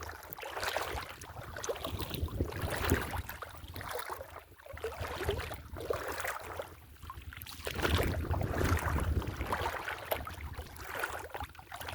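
Wind buffeting the microphone, with water sloshing and splashing around a small boat, swelling and easing every second or two.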